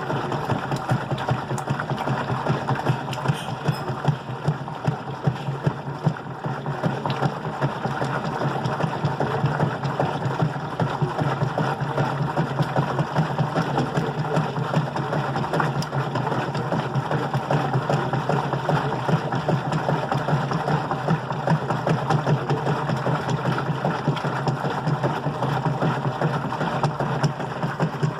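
GE Profile washing machine running: a steady motor hum with a rapid, even pulsing.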